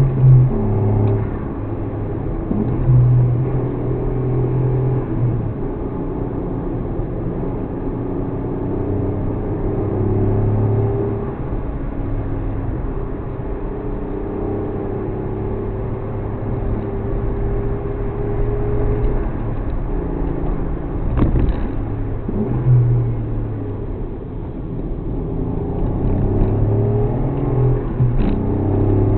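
Suzuki Alto Works HA36S's 660 cc turbocharged three-cylinder engine running on the move, its revs climbing slowly and then dropping back several times. There is a short sharp click about two-thirds of the way through.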